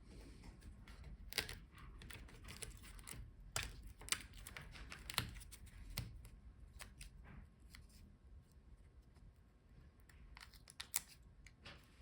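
Scattered light clicks, taps and rustles from handling small laptop parts: the display video cable being pulled free from the screen's back cover and set down.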